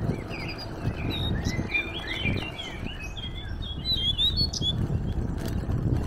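Small songbirds chirping and twittering in many short calls that glide up and down, busiest through the middle, over a low continuous rumble.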